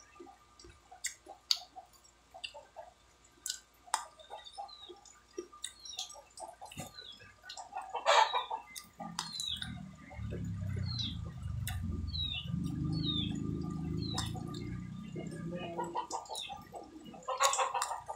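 Close mouth sounds of biting and chewing sineguelas, with many small wet clicks and smacks. In the background, chicks peep in short falling chirps and chickens cluck. A lower droning sound runs for several seconds in the middle.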